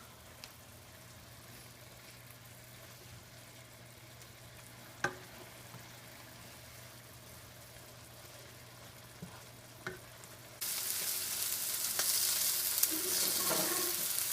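Faint hum with a few light clicks, then about ten seconds in a loud, steady sizzle starts abruptly: marinated chicken thighs frying in ghee in a large pan, browning.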